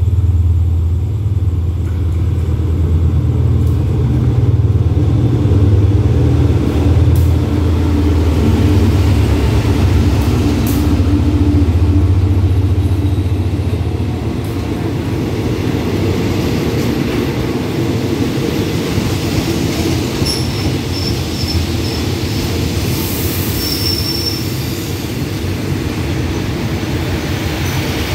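Diesel locomotive GEA 4525 pulling in past the platform with a loud low engine rumble, heaviest in the first half, then its passenger coaches rolling by on the rails as the train slows to stop. Short faint metal squeals come in the last third.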